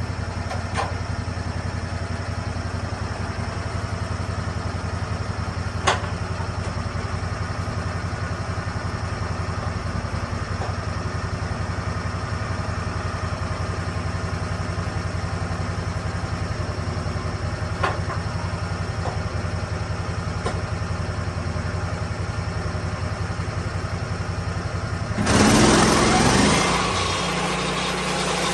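Lucas Mill swing blade sawmill's gasoline engine idling steadily, with a couple of sharp knocks. Near the end it is suddenly throttled up and runs on at a higher, louder pitch.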